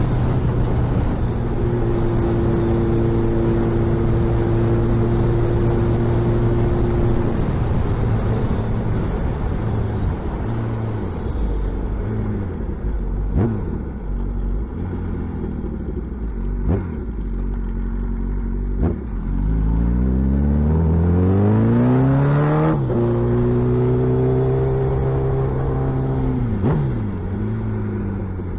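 Suzuki Hayabusa's inline-four engine through a loud exhaust while riding: a steady cruise that eases off, then about two-thirds in a hard acceleration with rising pitch, a gear change, and a drop in revs near the end. A few sharp cracks stand out along the way.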